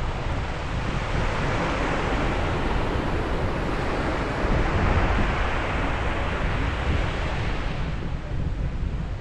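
Ocean waves breaking on a beach, the surf swelling to a long wash in the middle and easing off near the end, with wind rumbling on the microphone.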